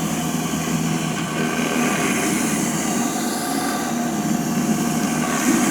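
Greenworks Pro 3000 PSI electric pressure washer running steadily: a motor hum under a continuous hiss of high-pressure water spray.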